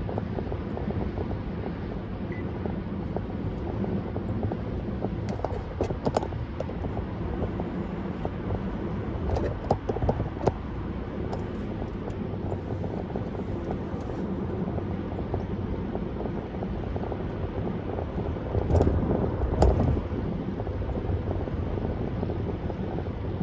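A car driving at road speed: a steady rumble of tyre and engine noise with a low hum, broken by a few short knocks and two louder thumps close together about three quarters of the way through.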